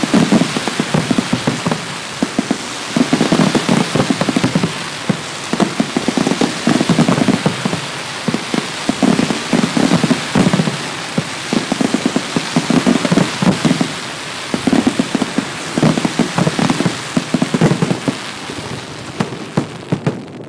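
Dense, continuous crackle of many firecrackers and fireworks going off at once, like heavy rain, with louder clusters of bangs every second or two. The crackle thins out near the end.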